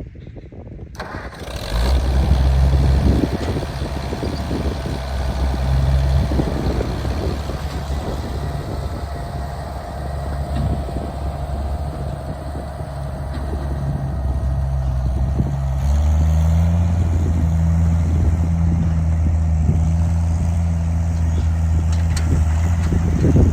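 An engine starts about two seconds in and runs steadily with a low, even beat. A little past the middle it steps up in speed and loudness, as if throttled up, and it drops away sharply at the very end.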